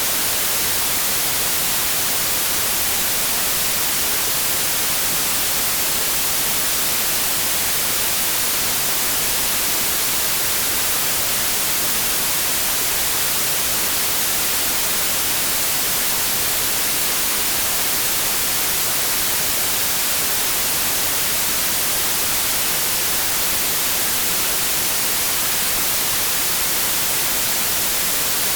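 Steady white noise: an even static hiss that does not change, strongest in the high frequencies.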